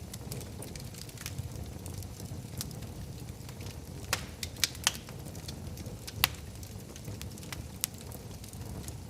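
Wood fire burning in a fireplace: a steady low rumble of flames with scattered crackles and a few louder pops, the sharpest about six seconds in.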